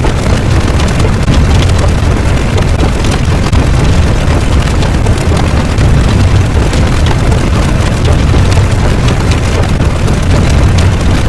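Loud, steady low rumble with a crackling noise over it, without breaks or changes.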